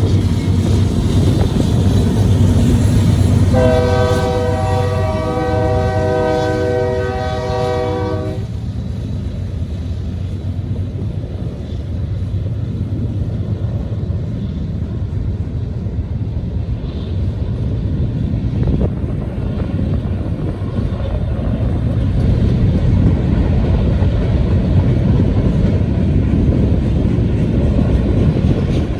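Union Pacific manifest freight train passing, its low rumble steady throughout. The locomotive's multi-note air horn sounds one long blast of about five seconds, starting a few seconds in.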